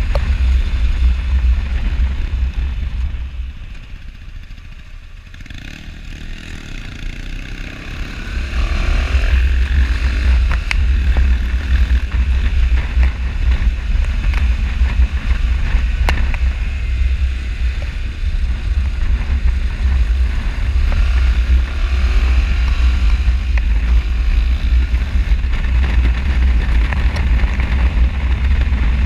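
Motorcycle riding with wind rumbling over the microphone and the engine running underneath. A few seconds in the wind noise eases off as the bike slows, then the engine pitch rises as it accelerates and the wind noise returns.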